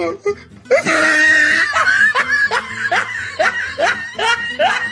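A person laughing: a drawn-out laugh about a second in, then a run of short, rapid laughs at about three a second.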